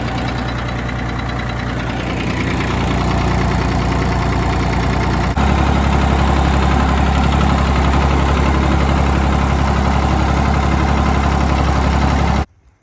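Ford 1910 tractor's three-cylinder diesel engine running steadily, with a knocking diesel clatter. About five seconds in it jumps suddenly to a louder, deeper note, and the sound cuts off abruptly near the end.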